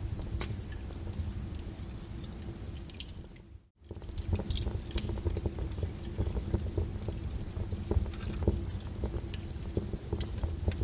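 Wood fire crackling in a fireplace: a steady low rumble of flames with frequent sharp pops and snaps. About three and a half seconds in the sound dips almost to silence for a moment, then returns.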